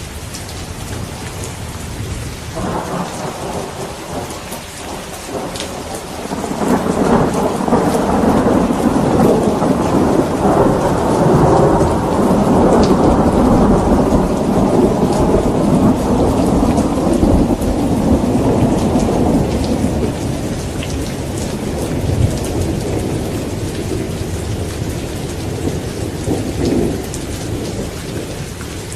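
Steady rain falling, with a long rolling thunder rumble that swells about six seconds in, holds for over ten seconds and slowly dies away near the end.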